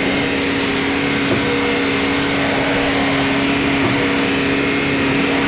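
An engine or motor running steadily at a constant speed, a continuous hum with no change in pitch.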